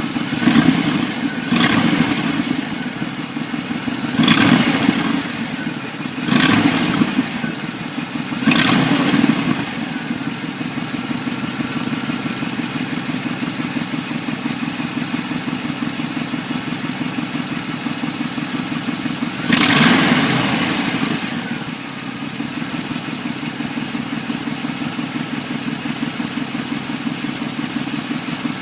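1994 Chevrolet Impala SS V8 engine idling with a steady pulsing beat. It is revved in short blips: about five in the first nine seconds and one longer rev near twenty seconds, each settling back to idle.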